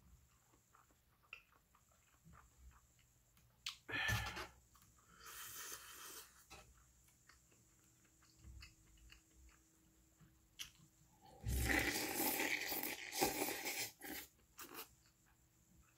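Close-miked chewing and eating of beef tripe and intestine soup: small wet clicks and crunches throughout, with louder noisy bursts about four seconds in, around six seconds, and a longer one of about three seconds near the end as he eats with his head down over the pot.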